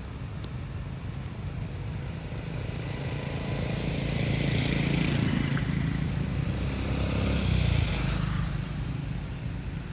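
A motor vehicle driving past: a low engine rumble that grows louder from about three seconds in, peaks in the middle, and fades away near the end.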